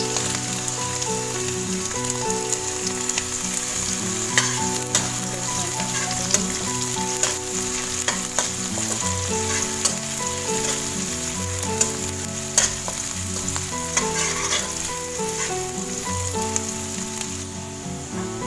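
Sliced shallots and garlic sizzling as they fry in hot oil in a non-stick wok, stirred and scraped with a metal slotted spatula that clicks against the pan now and then.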